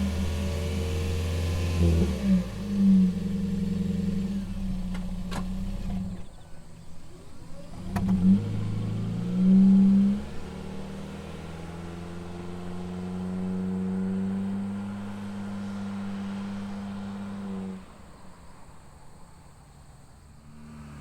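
Toyota Sienta Hybrid's 1NZ-FXE four-cylinder engine running through an HKS Legal aftermarket muffler. It is blipped in a few short revs, then held at a steady speed. About three-quarters of the way through the engine sound drops away.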